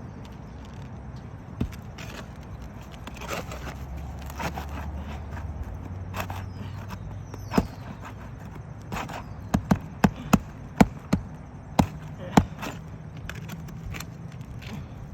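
Sharp knocks and scraping of hand tools working loose asphalt roof shingles. A single knock comes about a second and a half in, another near the middle, then a quick run of about eight knocks in the last third.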